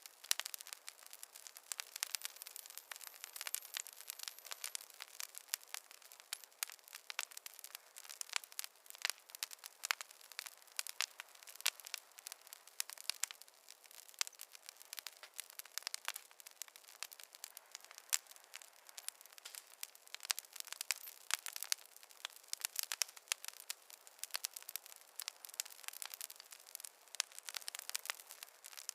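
Wood fire crackling: a dense, irregular stream of small pops and snaps over a faint hiss, with no low roar of flame.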